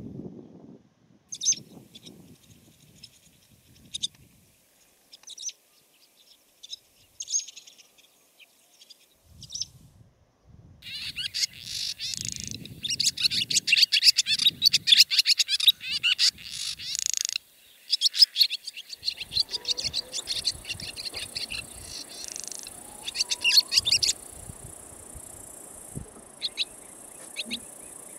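Barn swallow twittering: scattered short, high chirps at first, then a long, fast run of twittering song about eleven seconds in, and more twittering bursts after it. A steady high hiss and a low rumble come in during the last third.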